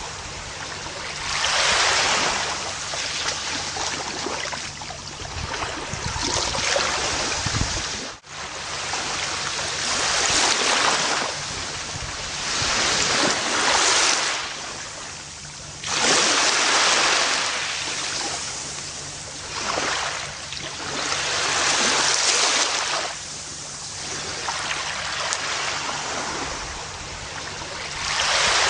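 Gentle ocean waves washing onto a beach, each wave swelling and receding over a few seconds in a steady series, with one brief cut-out about eight seconds in.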